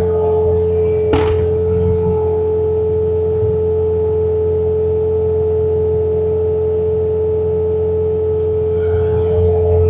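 Bobcat T66 compact track loader running its snowblower attachment: a steady high whine over a low engine drone, with a sharp click about a second in and another near the end.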